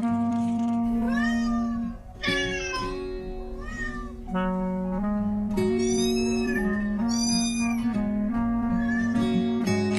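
A cat meowing several times, each meow rising then falling in pitch, over soft instrumental background music with held notes.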